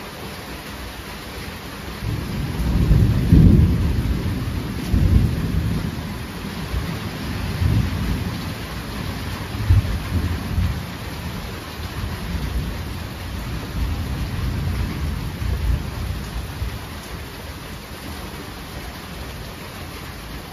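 Steady heavy rain with a long roll of thunder: a deep rumble builds about two seconds in, peaks soon after, and rolls on in waves for over ten seconds before fading back to the rain.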